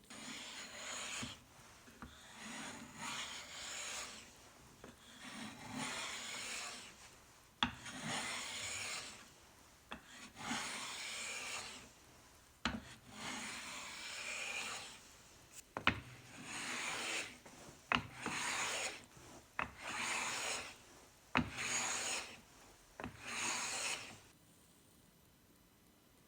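Small hand plane taking repeated strokes along a piece of wood, each stroke a rasping shave lasting about a second. A few sharp knocks come between strokes.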